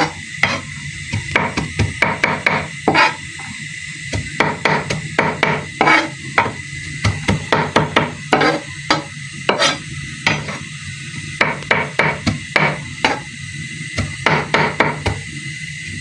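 Irregular series of sharp wooden knocks, about two or three a second: a kitchen utensil striking a hard surface over and over.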